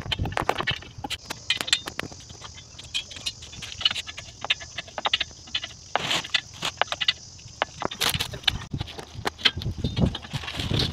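Irregular light clicks and knocks, as of parts and tools being handled, with denser runs about six and eight seconds in.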